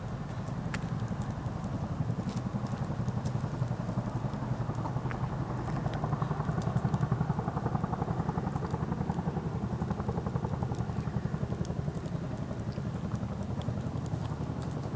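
Campfire crackling, with scattered sharp pops over a steady low, fast-pulsing rumble.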